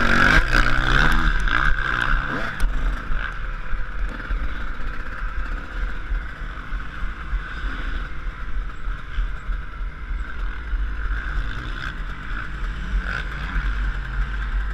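Yamaha YZ125 two-stroke motocross engine: the revs fall away in the first two seconds, then it runs on as a steady low rumble.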